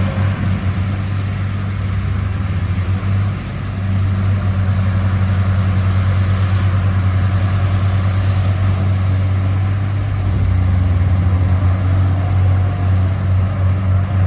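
Bulldozer's diesel engine running steadily under work with a deep, continuous drone, easing briefly about three seconds in.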